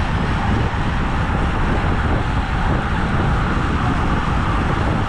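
Steady, loud wind rush on the microphone of a camera riding along on a road bike at speed, with road noise underneath.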